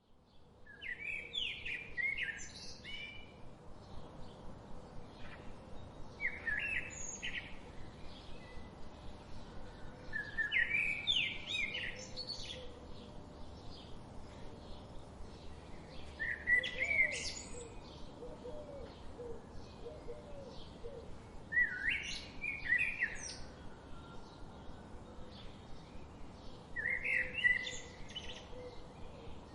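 Birds singing and chirping: a song phrase of quick chirps comes about every five seconds, with a steady run of short chirps in between.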